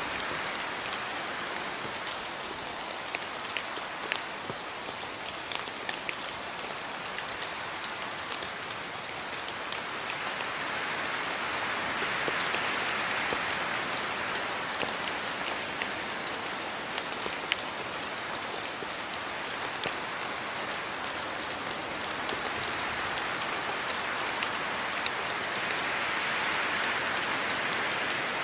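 Steady rain falling, with many sharp ticks of single drops striking close by. The rush of the rain swells slightly about twelve seconds in and again near the end.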